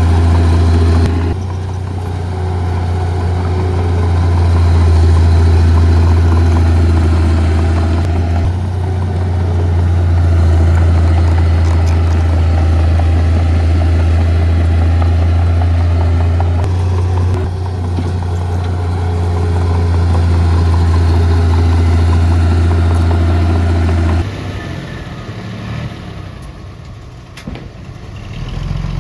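Heavy diesel engine of earthmoving equipment running with a strong, steady low hum, its sound changing abruptly a few times. About five seconds before the end the engine sound drops away, leaving quieter engine noise and a few knocks.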